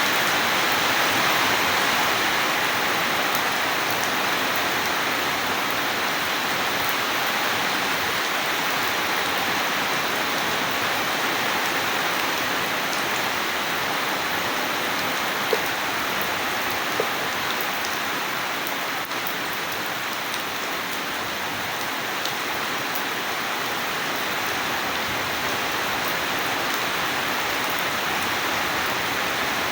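Steady, heavy rainfall hissing evenly, with two single drops ticking a little louder about halfway through.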